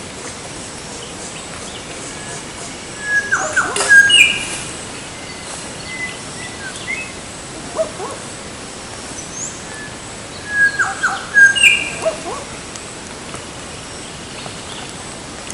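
A bird calling: two similar bursts of quick notes with sharp falling slurs, about seven seconds apart, with a few single notes between them, over a steady background hiss.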